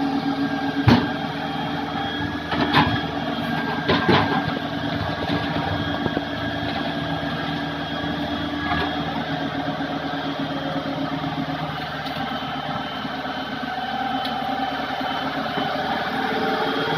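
Hitachi excavator's diesel engine running steadily, with three sharp knocks in the first four seconds or so.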